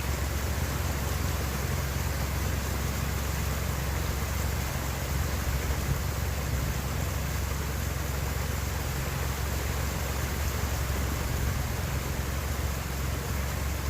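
A vehicle driving steadily: a constant low engine drone under an even hiss of tyre and road noise, with no change in pace.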